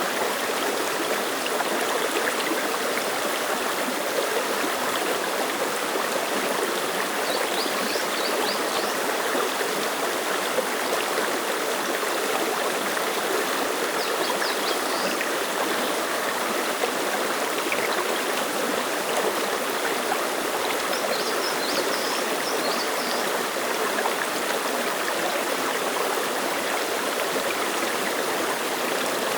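Clear mountain stream flowing over rocks: a steady, even rush and babble of water.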